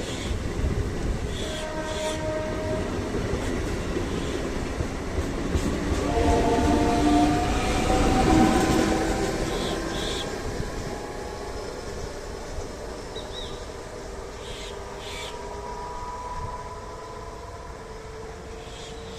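MEMU electric multiple-unit train moving on the track. It grows louder to a peak about eight seconds in, then fades, with whining tones that slowly slide in pitch over the rail noise.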